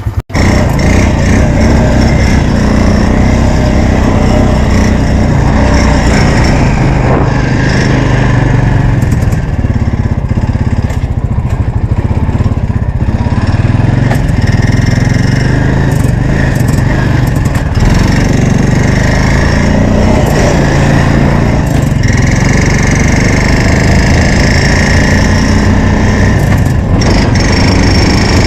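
Honda 350's engine running hard and continuously while being ridden through snow, loud throughout, starting abruptly just after the start.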